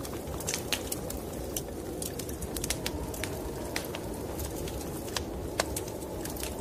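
Wood fire crackling in a fireplace, with many irregular sharp pops and snaps, over a steady low rush of snowstorm wind.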